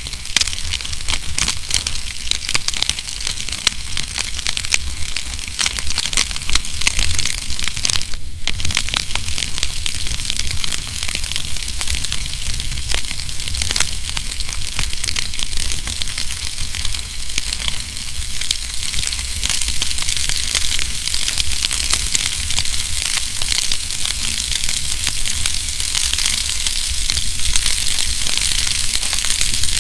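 Wood fire crackling in a fireplace: a dense, continuous stream of small snaps and pops over a low rumble.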